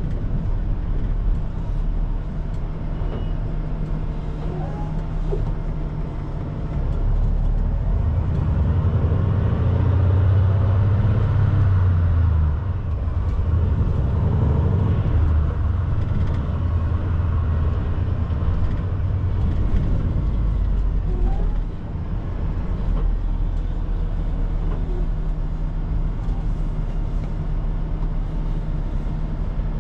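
Semi truck's diesel engine running while driving, heard from inside the cab with road noise. The engine note turns louder and deeper for a few seconds about a third of the way in, and dips briefly about two-thirds in.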